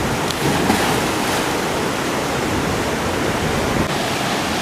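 Fast-moving creek water rushing steadily, an even, loud whitewater rush.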